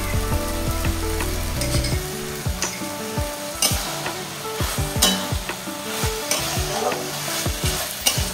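Mochar ghonto (banana-flower curry) sizzling in an aluminium kadai as a watery ground-rice paste is poured in. From about two seconds in, a metal spatula stirs it, scraping and knocking repeatedly against the pan.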